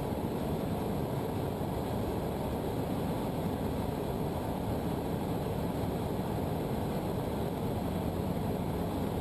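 Cessna 152's four-cylinder Lycoming O-235 engine and propeller droning steadily in flight, heard inside the cabin.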